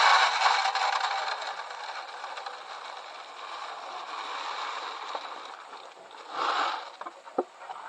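Bird seed being poured into a bird feeder: a dense rattling hiss of seed that is loudest at the start and tapers off over several seconds, followed by a short second burst near the end.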